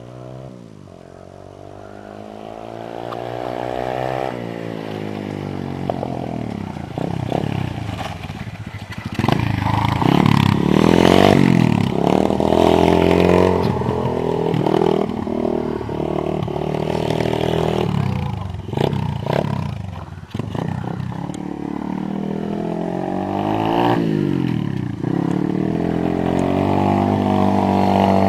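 Orion AGB 37 pit bike's small single-cylinder four-stroke engine being ridden, revving up and dropping back again and again, its pitch climbing and falling with throttle and gear changes.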